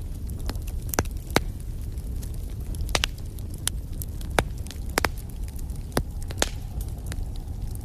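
Wood fire in a fireplace crackling, with irregular sharp pops and snaps over a steady low rumble of flame.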